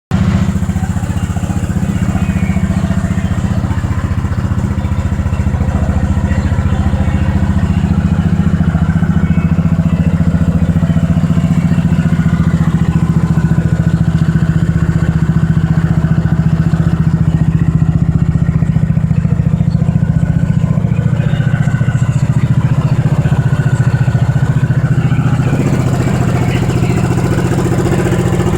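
Freshly rebuilt single-cylinder motorcycle engine running steadily on its test run after a new crankshaft, cylinder, piston and rings. Near the end its note settles a little lower and thinner.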